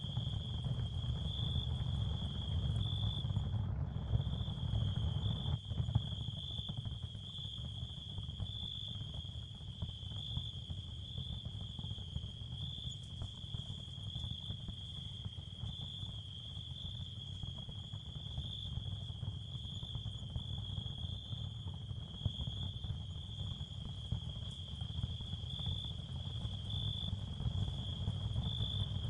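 Ambient sound field of steady, high cricket chirring over a constant low rumble, made as a masking bed for tinnitus. The chirring drops out for a moment about four seconds in.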